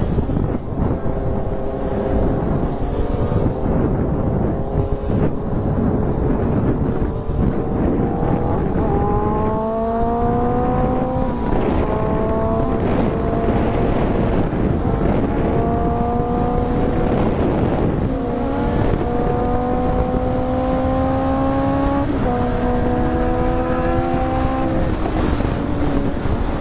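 Motorcycle engine accelerating through the gears: its pitch climbs, drops at each upshift and climbs again, several times in the second half, over a steady rush of wind noise.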